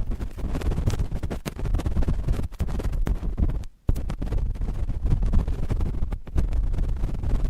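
Cotton swab scratching and rubbing directly on a microphone, close ear-cleaning style: dense, rapid scratchy strokes with a brief pause a little past the middle.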